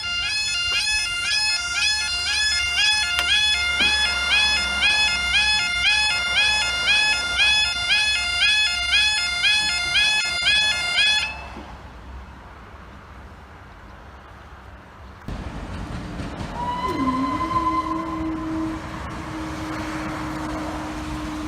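Level crossing audible warning alarm wailing over and over, about two wails a second, then cutting off about halfway through. Later a long steady horn-like tone begins and holds until the end.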